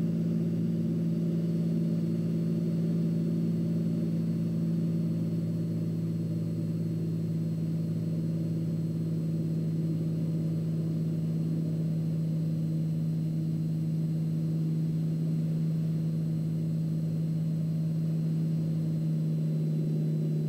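Cockpit drone of a turbocharged Cessna 206's six-cylinder piston engine and propeller at approach power, a steady low hum.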